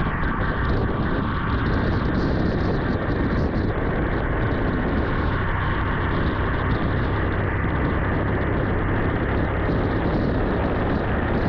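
Vintage Yamaha motorcycle's engine running steadily under way, under a constant rushing noise of the ride.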